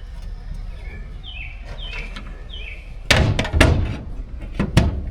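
A quick run of hard knocks and clatter from a boat's deck hatch lids being opened and handled, starting about three seconds in.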